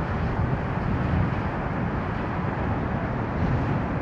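Steady low rumble of a Boeing 747's jet engines as it rolls out on the runway after landing.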